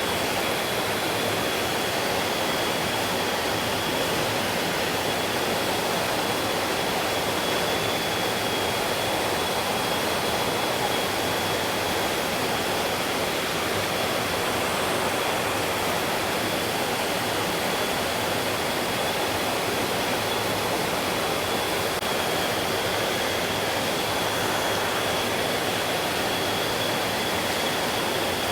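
Mountain stream flowing in a steady, even rush of water, with a thin, steady high whine running through it.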